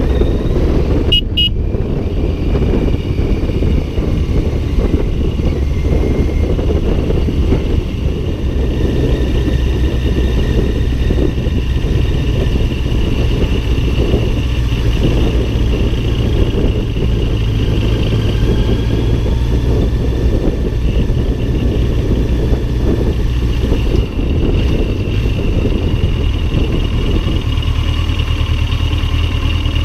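Heavy wind buffeting on a chest-mounted GoPro with an open-backed case while riding a Yamaha XJ900 motorcycle, the engine's steady hum running beneath the wind roar.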